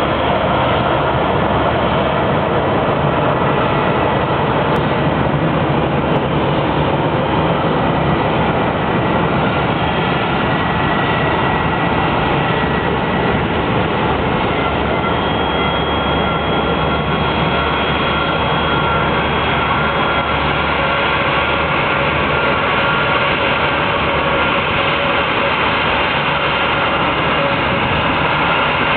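Boeing 767-300's jet engines running with a steady, loud roar, with thin high whining tones over it.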